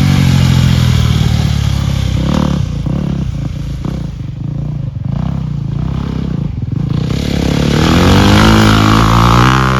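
Honda CRF dirt bike's four-stroke engine being ridden under changing throttle. The pitch falls off early as the throttle closes, wavers through a stretch of short blips, then climbs and gets louder near the end before dropping away.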